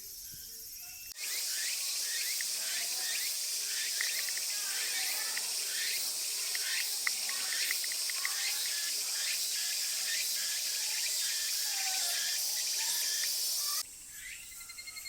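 A dense, high, shrill chorus of cicadas with many short chirps through it, cutting in suddenly about a second in and cutting off suddenly near the end, where a quieter, steady, pulsing insect trill takes over.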